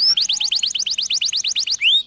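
Domestic canary singing a fast trill of short rising notes, about ten a second, then a slower upward-sweeping note near the end.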